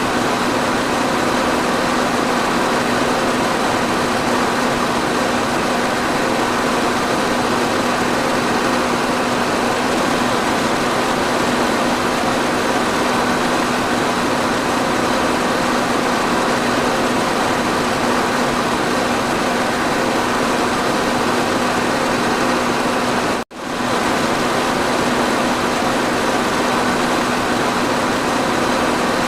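Electric fan running steadily: an even rush of air with a constant motor hum. The sound cuts out for an instant about three-quarters of the way through, then carries on unchanged.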